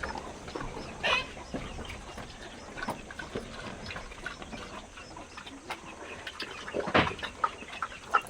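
Chickens clucking, with short calls scattered throughout and two louder calls, one about a second in and another near the end.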